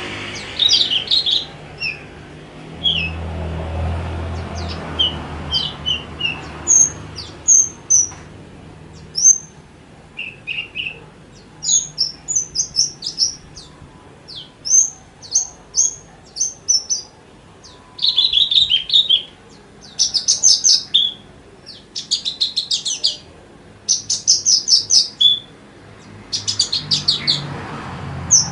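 Javan bush lark singing with short pauses: a string of short high chirps and whistled notes, turning to rapid trills in the second half. A low rumble sits under it near the start and again near the end.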